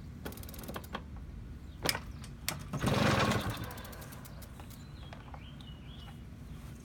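Small engine of a Magnum XK running with a steady low putter that sounds like a dirt bike, revved up briefly about halfway through before settling back.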